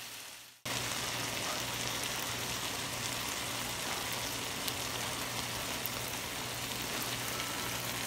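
Food sizzling and crackling steadily in a hot pan, with a faint low hum underneath. It starts abruptly about half a second in.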